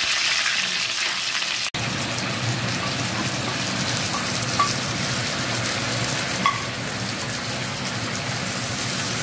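Hot oil sizzling steadily in a wok as sliced red onion fries, then with tomato slices added to the pan. A brief gap about two seconds in, and a couple of light knocks later on.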